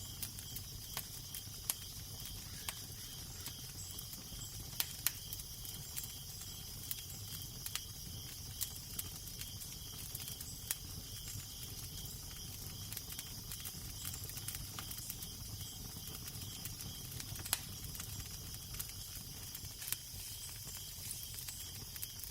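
Fire crackling with irregular sharp pops, a few louder snaps among them, over a steady low wind rumble and hiss.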